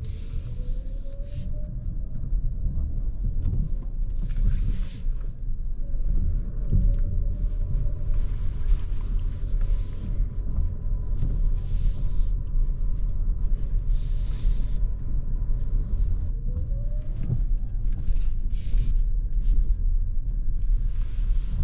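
Cabin sound of a 2023 Lexus NX350h hybrid SUV on the move: a steady low road rumble, with a rising whine near the start and again about sixteen seconds in, and brief hissing swishes every few seconds.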